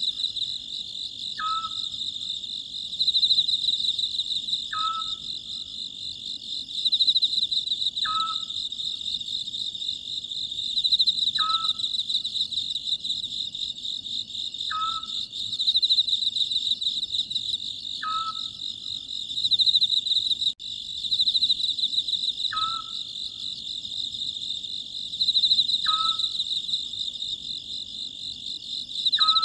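Oriental scops owl calling, a short note that drops and settles, repeated evenly about every three seconds over a continuous pulsing chorus of chirring insects.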